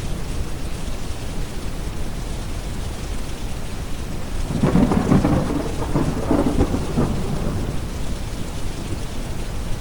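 Steady rain over a deep, low brown-noise hiss, with a roll of thunder rumbling for about two and a half seconds near the middle.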